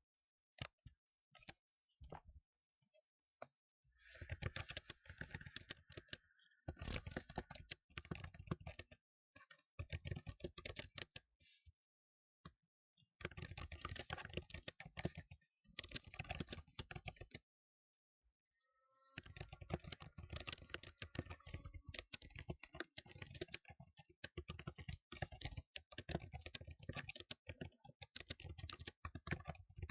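Computer keyboard being typed on loudly: a few separate taps at first, then rapid typing in bursts broken by short pauses, running without a break over the last third.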